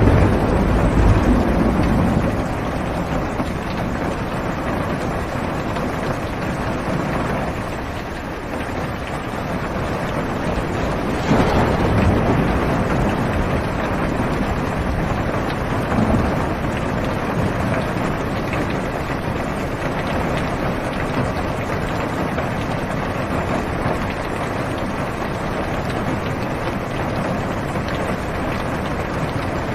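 Heavy rain falling on a car's roof and windows, heard from inside the cabin as a steady hiss. Low rolls of thunder swell at the start and again about eleven seconds in.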